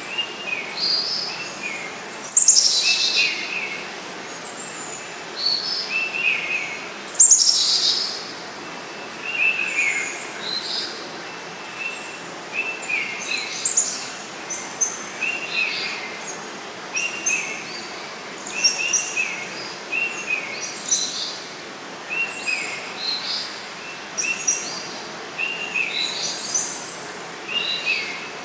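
Several birds chirping and calling in short repeated phrases, with two louder downward-sweeping calls near the start, over a faint steady rush of flowing river water.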